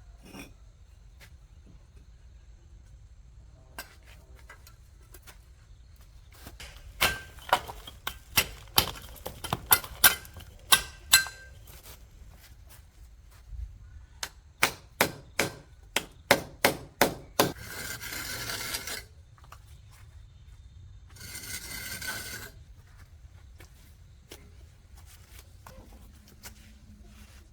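Two runs of sharp knocks with a slight metallic ring, a few a second, like blows from a hand tool. They are followed by two brief scraping sounds.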